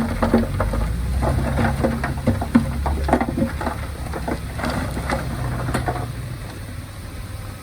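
Heavy diesel earthmoving machinery running, its low engine rumble overlaid by irregular clattering and rattling, like soil and stones shifting. The clatter fades out after about six seconds, leaving a quieter engine.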